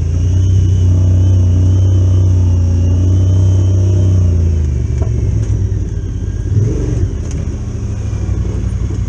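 Honda Pioneer 1000-5 side-by-side's parallel-twin engine running through an HMF aftermarket exhaust: a steady low drone that drops in pitch about halfway through, then runs more unevenly.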